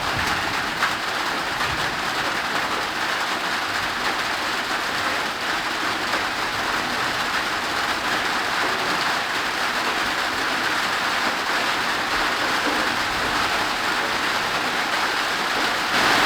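Heavy tropical downpour: rain pouring steadily as an even hiss, growing a little louder near the end.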